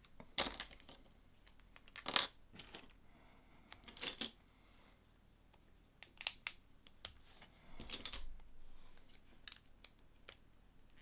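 Small plastic LEGO pieces clicking and clattering as they are handled and pressed together: scattered sharp clicks a second or two apart.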